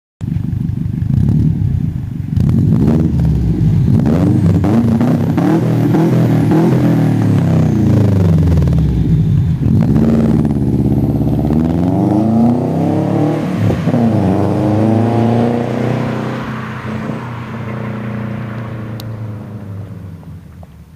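2005 Subaru WRX's turbocharged flat-four engine revving through an aftermarket turboback exhaust with a catless downpipe, its pitch rising and falling several times. The sound dies down over the last few seconds.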